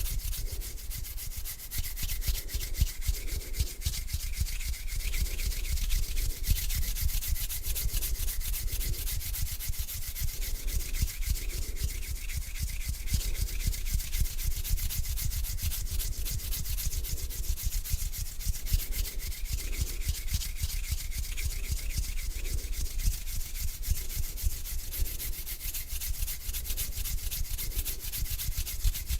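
Hands rubbing slowly together: a continuous dry, crackly swishing of skin on skin, with strokes coming about once a second.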